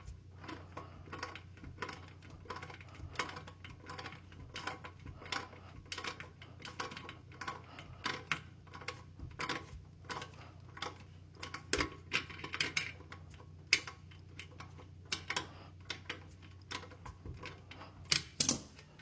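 Irregular light clicks and metallic taps of hand work on a newly set toilet's base bolts, over a steady low hum.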